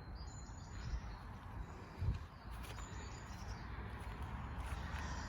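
Small birds chirping in short high notes against a steady low rumble of wind and handling noise, with one dull thump about two seconds in.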